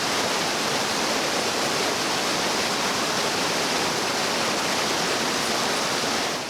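Rushing water, a steady loud hiss-and-roar of flowing water, which cuts off suddenly at the end.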